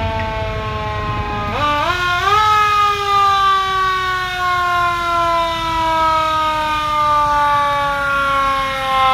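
A siren sounding as it rolls out: a single wailing tone that is pushed back up in pitch in a few quick steps about two seconds in, then slowly winds down in pitch, over a low engine rumble.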